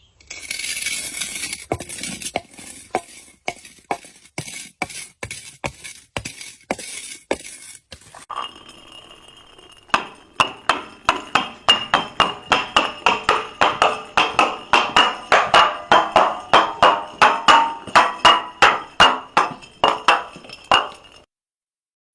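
Glass bottle struck over and over: a run of sharp clinks with a ringing note. For the first eight seconds the strikes are lighter, under a steady hiss; from about ten seconds they come louder, two to three a second, and stop just before the end.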